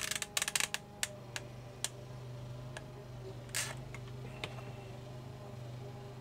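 Light clicks and taps from handling a hot glue gun and small plastic figure parts: a quick cluster in the first second, then scattered single clicks and one short rustle about three and a half seconds in, over a steady low hum.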